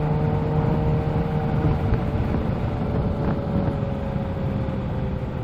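Kawasaki Z H2's supercharged inline-four engine running while riding, its pitch sinking slowly as the bike eases off, under a steady rush of wind and road noise.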